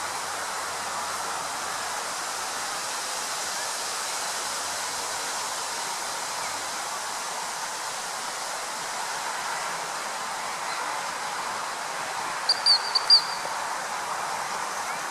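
Steady rushing outdoor noise, with a bird's quick burst of four high chirps about two-thirds of the way through.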